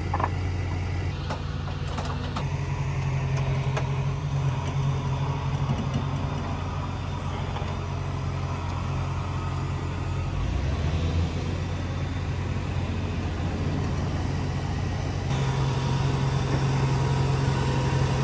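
Car engine running steadily, a low drone whose pitch dips briefly about ten seconds in.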